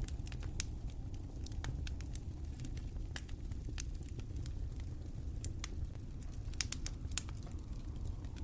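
Wood fire in a fireplace crackling: irregular sharp pops and snaps over a steady low rumble, with a few louder pops about two-thirds of the way in.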